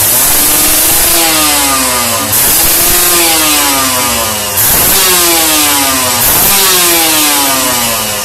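Kawasaki Ninja R's two-stroke single revved through an aftermarket Cream-Pie ZZ1 exhaust: four sharp throttle blips, about two seconds apart, each followed by the revs falling back.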